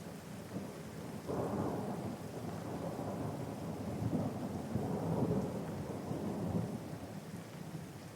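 Rolling thunder over steady rain: a deep rumble swells about a second in, holds for several seconds, then dies away near the end.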